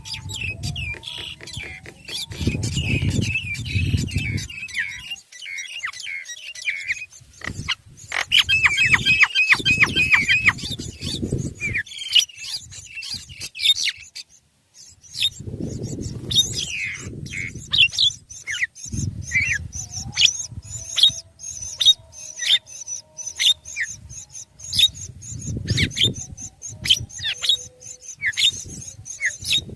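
Birds chirping: many short, high chirps, with a fast run of repeated chirps about a third of the way in. Low rumbling bursts come and go every few seconds beneath them.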